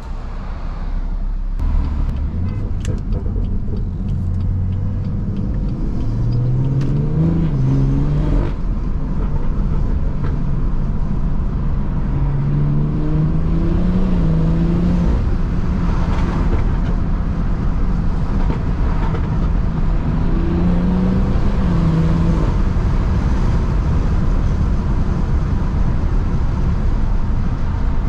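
BMW 340i's turbocharged B58 inline-six running through a catless downpipe and resonator-delete exhaust while driving. The engine note rises in pitch under acceleration, drops briefly at the gear changes, then holds a steady drone.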